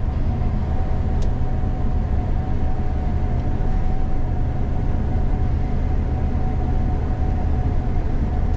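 Gleaner combine running steadily under harvest load, heard from inside the cab: a constant low rumble with a steady whine on top, and a faint tick about a second in.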